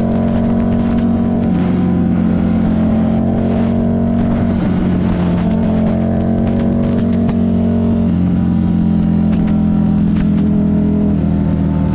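Buell 1125CR's liquid-cooled V-twin engine running under way at a steady cruise, its note stepping up and down several times as the throttle or gear changes.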